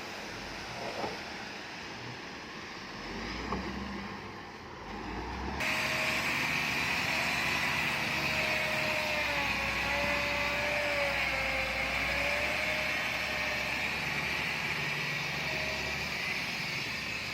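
Heavy earthmoving machinery running with a steady engine drone. About five and a half seconds in, the sound cuts abruptly to a louder stretch with a wavering whine over the drone.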